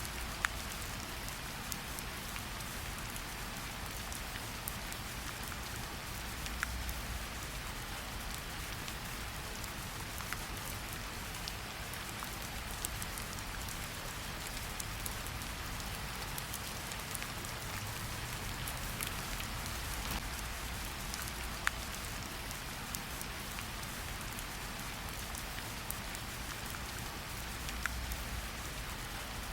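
Steady rain falling in a forest, a constant patter with scattered individual drops ticking out above it.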